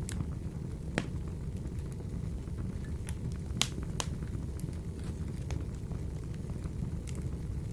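Wood fire burning in a wood-burner stove: a steady low rumble of the flames with scattered sharp crackles and pops, the loudest about a second in and twice around three and a half to four seconds in.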